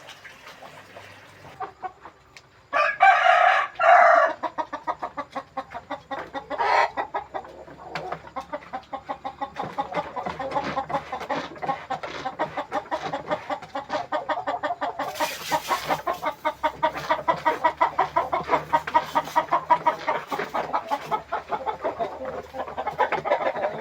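A flock of village chickens (ayam kampung) clucking steadily in rapid, overlapping calls, with a loud rooster crow about three seconds in. There is a short burst of rustling noise about halfway through.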